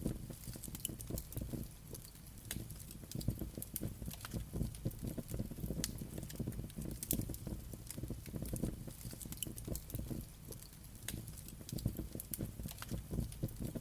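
Wood fire crackling, with many sharp pops and snaps at irregular moments over a low rumble of burning.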